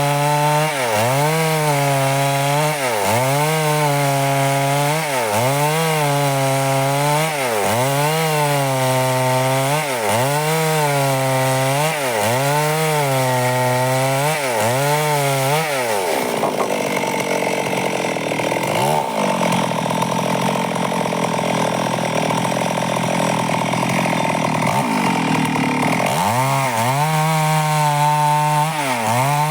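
Stihl two-stroke chainsaw running and cutting wood. Its engine pitch dips and recovers regularly, about every second and a half, for the first half. A rougher, noisier stretch with little steady pitch lasts about ten seconds, and then the regular dips come back near the end.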